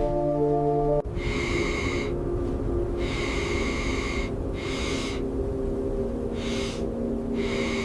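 Music cuts off about a second in. About six breathy snorts or exhalations follow, each up to a second long with short gaps between, over a low steady rumble.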